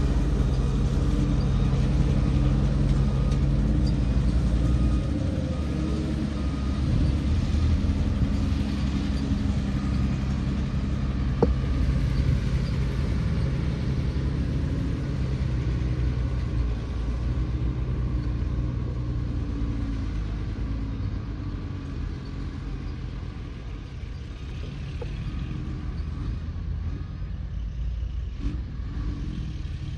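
Radio-controlled model bulldozer running with a steady low rumble, easing off somewhat in the last third, with a single sharp click about eleven seconds in.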